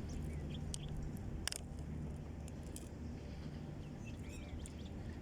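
Outdoor background: a steady low hum, faint scattered bird chirps, and a single sharp click about a second and a half in.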